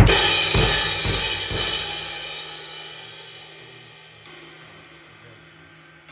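An 18-inch Omete Fusion crash cymbal struck four times in quick succession, with a low drum hit under each stroke, then left ringing and fading away over a few seconds. A few faint light taps follow near the end.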